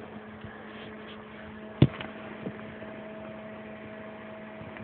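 Steady electrical hum from a powered microwave oven transformer rig, with one sharp click about two seconds in.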